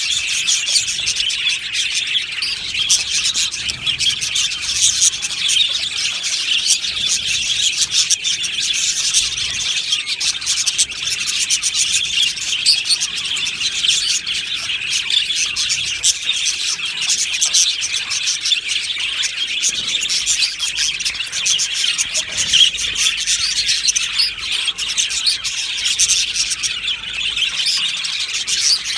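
A colony of budgerigars chattering and chirping all at once, a dense, unbroken warble of many birds together.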